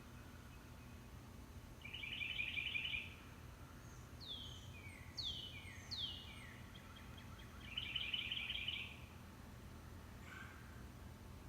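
Songbirds singing faintly in the background. A rapid trill comes about two seconds in, then a run of four down-slurred whistles midway, and a second trill near the end.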